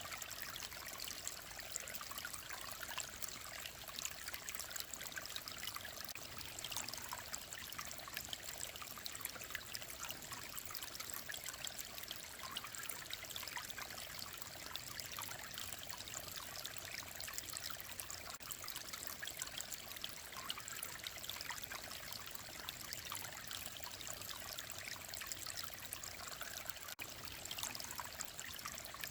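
Shallow mountain stream running and trickling over stones: a steady, even babble.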